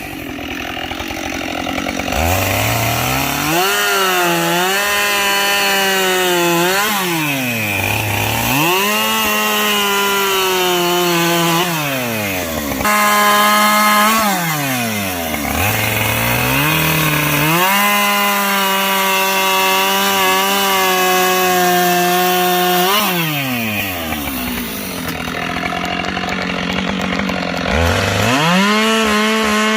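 Two-stroke chainsaw bucking logs: it revs up, holds high revs through each cut, then drops back to idle, about five times over.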